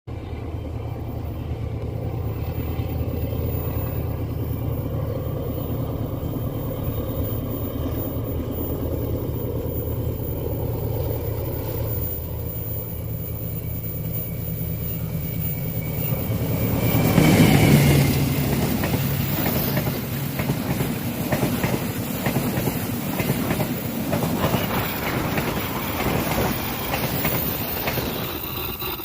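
Argo Lawu passenger train passing: the diesel locomotive's engine drones steadily as it approaches and is loudest about 17 seconds in. The carriages then clatter over the rail joints in a rapid, continuous clickety-clack.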